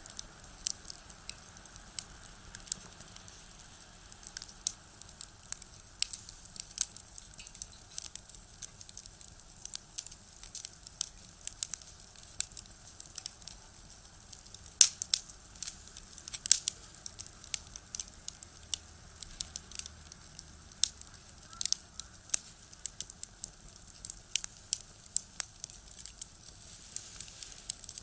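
Wood fire burning in a small box stove, crackling and popping at irregular intervals, with a few sharper, louder pops around the middle.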